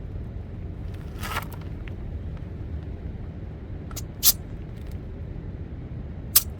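A digital tyre pressure gauge being pressed onto a tyre's valve stem, giving a few short sharp hisses and clicks of escaping air. A steady low rumble sits underneath.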